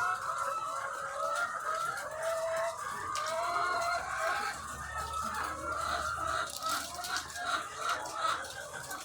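A large flock of egg-laying hens clucking and calling all at once, a dense, unbroken chorus of many overlapping voices.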